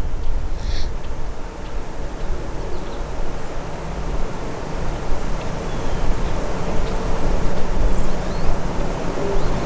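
Strong wind gusting and buffeting the microphone: a deep rumble that swells and eases, with one short click about a second in.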